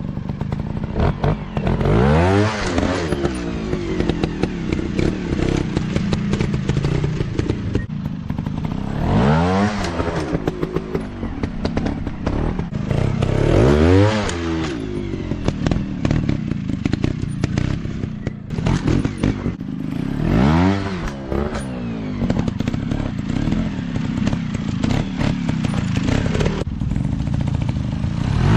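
Motocross dirt bike engines running loud, revving up hard several times a few seconds apart over a constant rattly engine noise.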